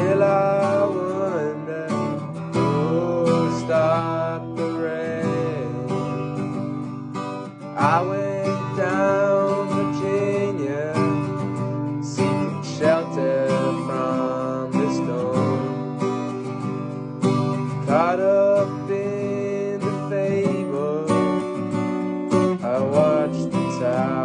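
Country-rock band music led by strummed acoustic guitar, with a melody line sliding up and down in pitch over the chords.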